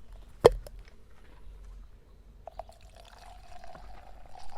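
A sharp click about half a second in, then an adult beverage being poured into a cup, a steady splashing pour with a tone that rises slowly as the cup fills.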